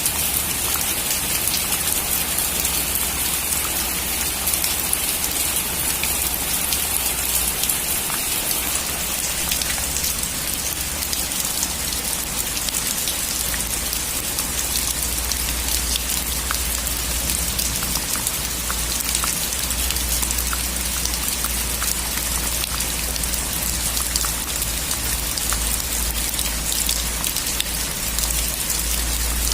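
Steady heavy rain drumming on a metal roof, a dense hiss full of fine drop ticks over a low constant rumble.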